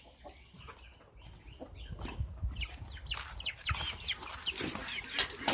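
Chickens clucking softly in short calls, with faint clicks and rustles among them.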